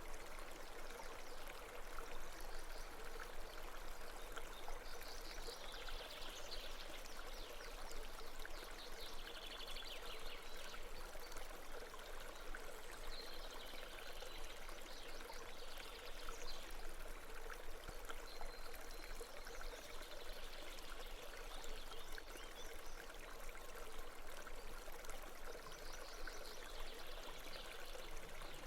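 Babbling brook, water flowing steadily over rocks, with brighter splashy burbles every few seconds. A faint steady tone sits underneath.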